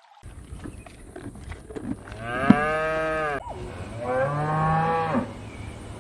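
A cow mooing twice, in two long calls of a bit over a second each, the pitch dropping at the end of each.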